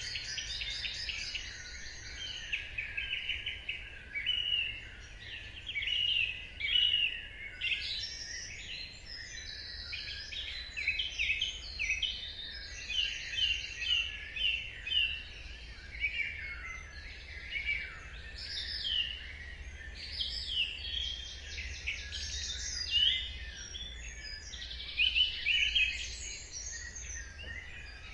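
Dawn chorus of many songbirds singing together: overlapping chirps, rapid trills and whistles, over a low steady rumble.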